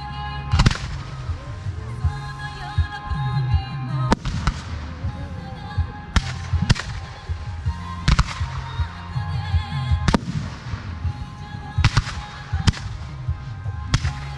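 Aerial firework shells bursting, about nine sharp bangs one to two seconds apart. They go off over a woman singing a pop ballad with its backing music, a live song-and-fireworks collaboration.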